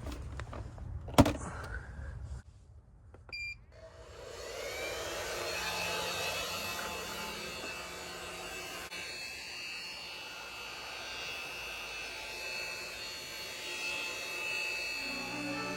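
A click, then a short beep, then a hairdryer switches on and runs steadily, blowing with a faint motor whine. Music starts near the end.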